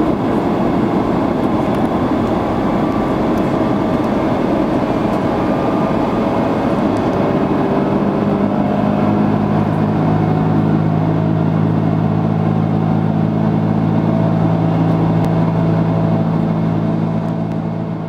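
Airbus A330-300 cabin noise: a loud, steady rush of airflow and jet engine noise. A steady low engine hum comes in about eight seconds in and holds, and the sound begins to fade out near the end.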